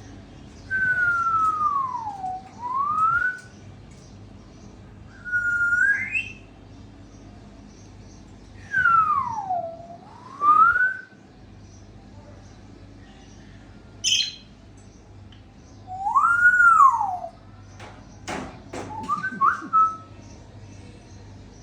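African grey parrot whistling: clear whistles that swoop down in pitch and back up, twice, with a short rising whistle between them, then an arched note that rises and falls, followed by a few clicks and short chirps near the end.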